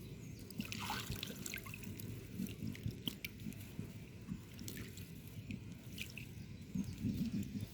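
Water dripping and lightly splashing, with small scattered clicks, as a toy is moved about in shallow water.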